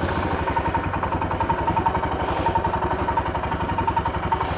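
Motorcycle engine idling steadily with an even run of exhaust pulses, just after starting.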